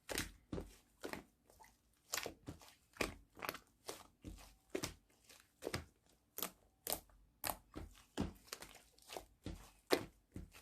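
Slime being pressed and squished by hand, a crunchy crackle with each press, about two a second.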